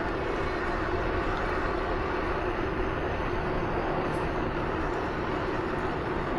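Steady rushing wind and rolling tyre noise from riding a bike on a trail, with a faint steady hum.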